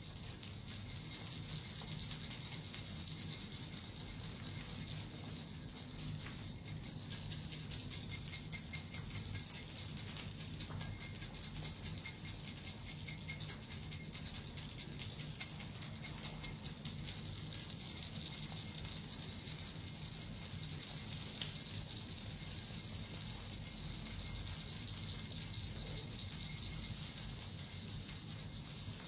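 Small suzu bells and a metal rattle shaken continuously in an even, unbroken jingle.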